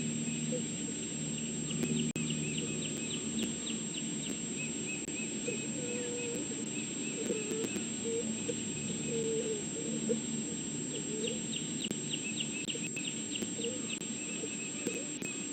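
Outdoor ambience with a bird trilling in two rapid runs, one about two seconds in and one near the end, and short low calls in between, over a steady electrical hum.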